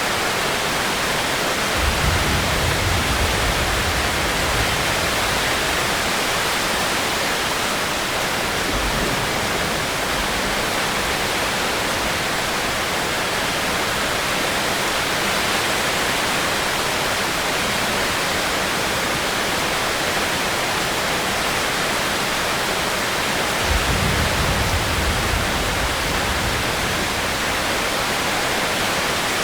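Steady heavy rain falling. There is a low rumble about two seconds in and another for a few seconds near the end.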